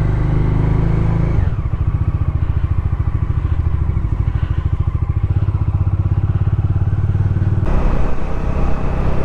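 Motorcycle engine running. About a second and a half in, its steady note drops to a slower, throbbing pulse, and near the end it turns rougher and louder.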